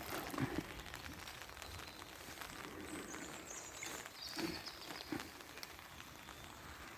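Heavy rain falling steadily, a dense haze of small pattering ticks.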